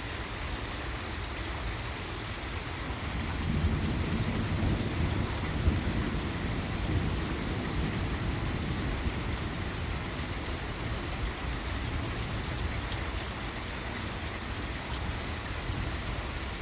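Steady rain falling, with a long low rumble of thunder that builds about three seconds in and slowly fades over several seconds.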